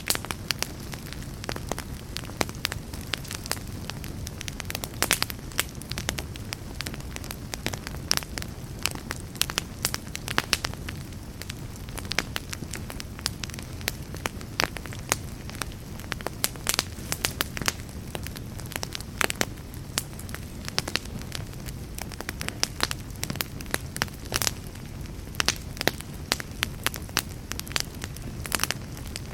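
Wood logs burning in a fireplace: dense, irregular crackles and sharp pops over a steady low rumble of the flames.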